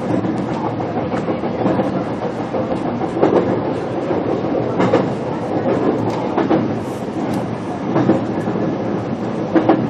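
Interior running noise of a JR Kyushu BEC819 'DENCHA' battery electric train running on battery power, heard inside its motor car: a steady rumble of wheels on rail with a faint steady tone. Sharp clacks from wheels over rail joints come roughly every second and a half.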